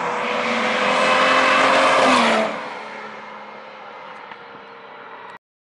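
Lamborghini Miura S's V12 engine passing by at speed. The note grows louder as the car approaches, drops in pitch as it goes past about two seconds in, then fades away, and the sound cuts off abruptly near the end.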